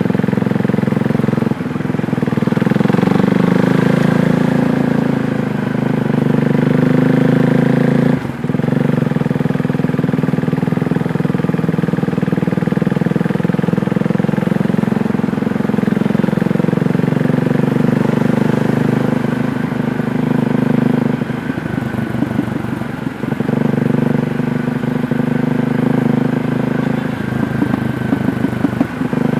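KTM Duke 390's single-cylinder engine running under way, its revs rising and falling, with a short break in the sound about eight seconds in. Around twenty-two seconds and again near the end it runs at lower revs, slow enough that the separate firing pulses can be heard.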